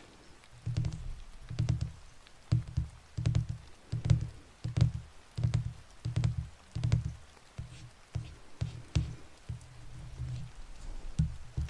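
Close-miked ASMR trigger: soft low thumps, each with a light click, repeated at about two a second, as from tapping on or against the microphone.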